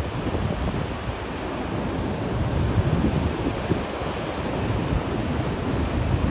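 Glacial outburst floodwater rushing in a steady, turbulent torrent, with wind buffeting the microphone.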